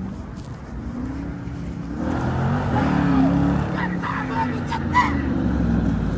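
A car engine revving, its pitch rising and falling, growing louder about two seconds in with a rush of noise, as at a car meet where a driver is showing off.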